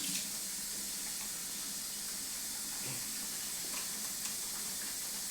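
Steady background hiss with a few faint soft clicks and smacks of puppies eating softened puppy food.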